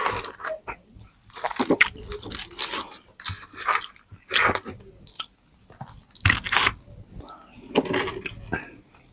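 Close-miked crunching and chewing of crispy pata, deep-fried pork knuckle with crackling skin, in repeated bites with short pauses between them.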